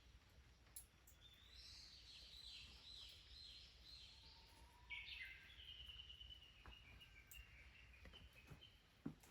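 Faint wild songbird singing: a run of short falling chirps, then from about five seconds in a quick trill that slowly drops in pitch. A few soft clicks.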